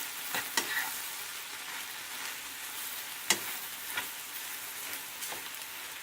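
Chicken and spinach curry sizzling steadily in a frying pan while a utensil stirs it, knocking and scraping against the pan a few times, the sharpest knock about three seconds in.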